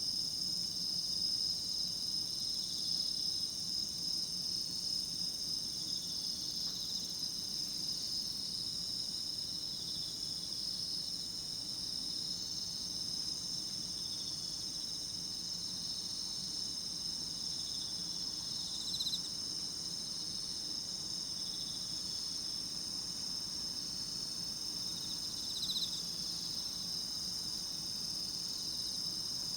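A chorus of autumn singing insects: several steady, high-pitched trills at different pitches go on without a break. Two brief louder calls stand out, about two-thirds of the way through and again near the end.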